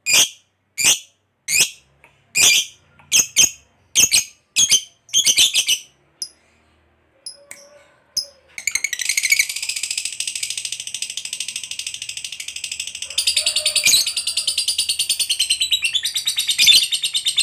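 Lovebird calling: a quick series of sharp, shrill chirps for about six seconds, then after a short pause a long unbroken rapid chatter, the drawn-out 'ngekek' trill, that runs for about eight seconds.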